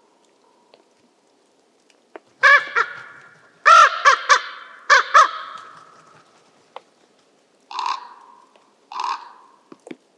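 Eurasian jay giving loud screeching calls, a cluster of them in the first half, then two shorter, quieter calls near the end.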